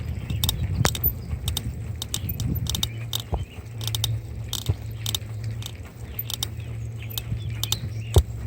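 Bicycle riding along: a steady low rumble with many irregular sharp clicks and rattles.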